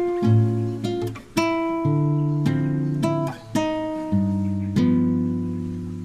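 Background music on acoustic guitar: a slow run of plucked notes and chords, each ringing and fading, the last one left to die away near the end.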